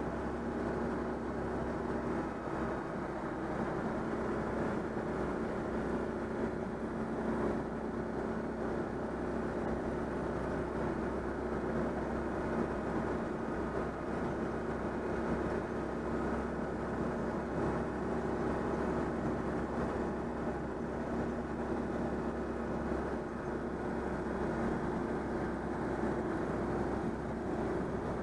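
Citroën 2CV AZLP's air-cooled flat-twin engine running at a steady motorway cruise, a constant drone with road and wind noise and no change in pitch.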